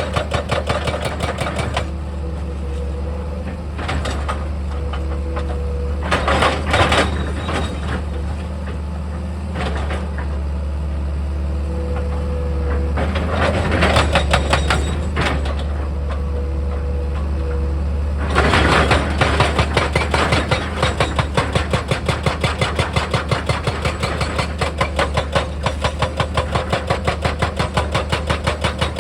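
Heavy diesel machinery running steadily, with a fast, regular knocking through it and a few short, louder bursts of noise.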